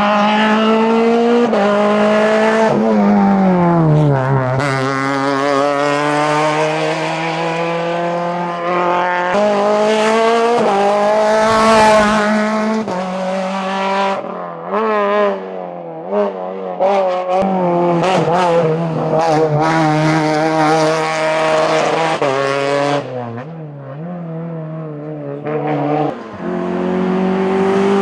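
Renault Clio Williams' 2.0-litre 16-valve four-cylinder engine revving hard at full throttle on a hillclimb run, the pitch climbing and dropping over and over with gear changes and lifts off the throttle. Near the end it cuts to a different car's engine.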